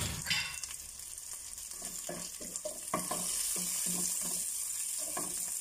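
Bell pepper, onion and garlic sautéing in oil in a pot, sizzling steadily while a wooden spoon stirs them with a quick run of light knocks against the pot from about two seconds in. The sizzle grows louder about three seconds in.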